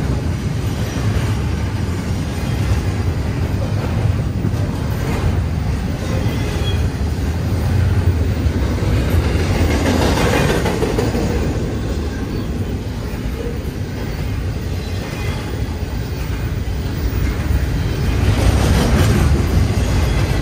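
Double-stack intermodal container train passing close by: steel wheels of the well cars running on the rails in a steady low rumble, growing louder about halfway through and again near the end.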